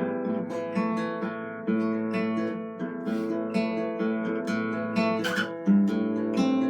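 Acoustic guitar played solo and improvised, a quick run of plucked and strummed notes ringing over one another.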